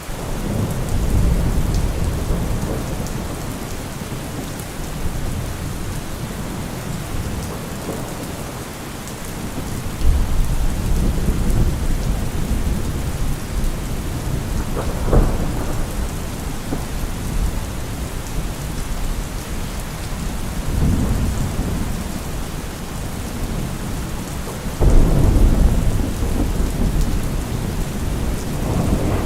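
Steady heavy rain with deep rolls of thunder rumbling underneath. The thunder swells suddenly about ten seconds in and again near the end.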